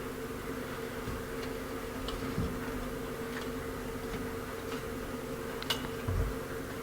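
A few light metallic clicks and taps of small carburetor parts, a spring and its retainer, being fitted by hand, the sharpest near the end, followed by a soft thump. They sit over a steady background hum.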